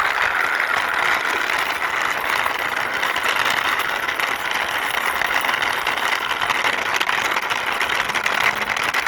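Toy dump truck's plastic wheels rolling across a hard surface as it is pushed by hand: a steady, dense rattling rasp.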